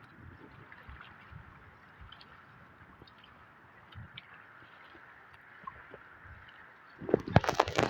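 Shallow water gurgling softly with small scattered splashes, as ducks dabble at the water's edge. About seven seconds in, a sudden louder burst of splashing and knocks starts.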